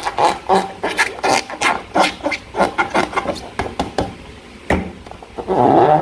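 Slime being squeezed and worked by hand: a quick run of sticky, wet squelches and crackles, about three a second, with a longer, louder squelch near the end.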